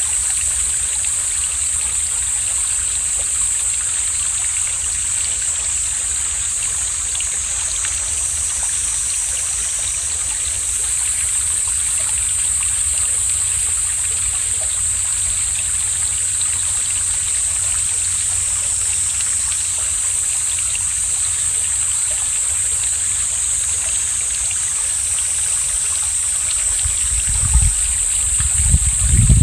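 Mountain stream flowing steadily, a constant rushing hiss, with wind rumbling on the microphone that gusts up near the end.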